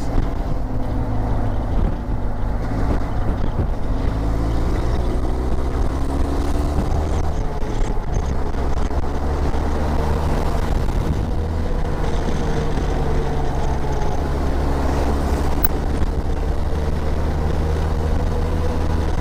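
Motorcycle engine running at highway cruising speed, its pitch rising and falling gently with the throttle, over a steady low rumble of wind and road noise.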